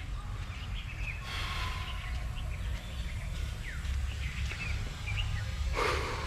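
Birds chirping in short, scattered calls over a steady low rumble, with a brief louder rustle near the end.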